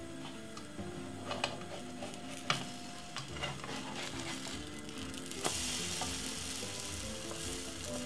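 Egg-soaked bread slice frying in vegetable oil in a frying pan: a steady sizzle with scattered pops and crackles, getting louder about five seconds in.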